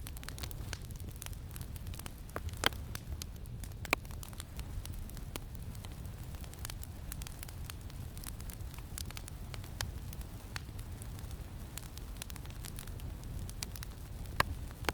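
Wood campfire crackling, with many small ticks and a few sharper, louder pops, one of them near the end, over a steady low wind rumble.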